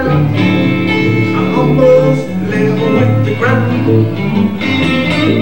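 Live blues band playing an instrumental passage, guitar to the fore over steady low bass notes.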